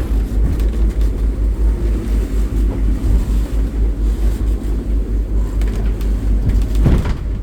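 Low, gusting rumble of wind buffeting the microphone aboard a boat, with a brief knock near the end.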